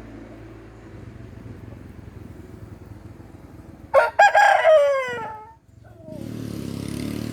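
A rooster crows once, about four seconds in: a loud call of about a second and a half that falls in pitch at its end. Under it runs a steady engine hum, and a motor grows louder near the end.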